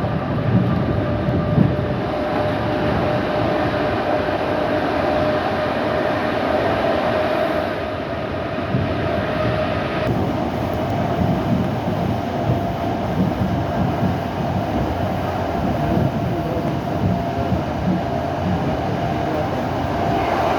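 Suburban electric train running along the track, heard from inside the carriage: a steady rumble of wheels on rails with a constant hum over it.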